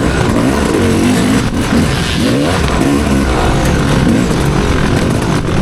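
Motocross dirt bike engine revving up and down over and over, the pitch climbing and dropping again every second or so under hard riding.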